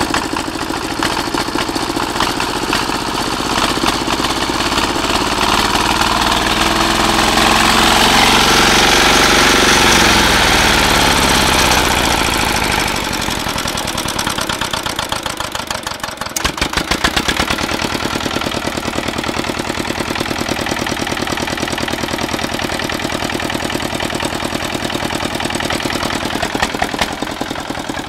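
Walk-behind tractor engine in runaway, racing out of control: its sound builds to a loud, high scream over the first ten seconds or so, then falls away in pitch. A sharp knock comes about sixteen seconds in, after which the engine runs on steadily at a lower speed.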